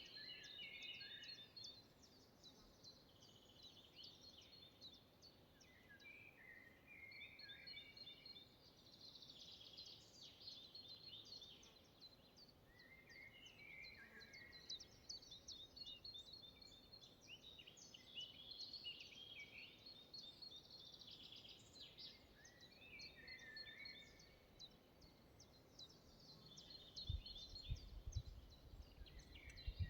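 Faint forest birdsong: several small birds singing and calling in overlapping trills and chirps throughout. A few low thuds come near the end.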